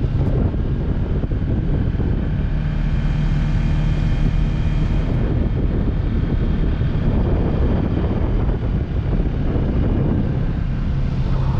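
Kawasaki Versys 650 parallel-twin engine running at a steady pitch while the motorcycle is ridden, mixed with heavy wind noise on the microphone.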